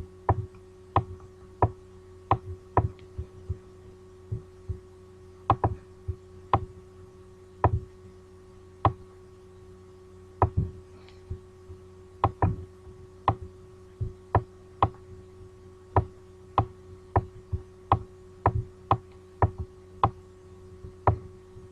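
Computer mouse clicking, single sharp clicks at an irregular pace of about one or two a second, over a steady electrical hum.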